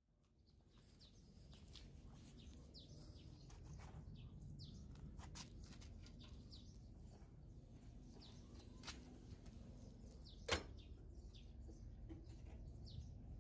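Faint outdoor ambience: small birds chirping in short, falling calls again and again over a low background rumble, with a single sharp click about ten seconds in.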